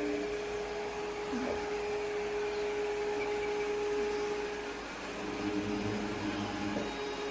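ECOVACS Deebot T50 Omni robot vacuum running: steady motor noise with a constant whine.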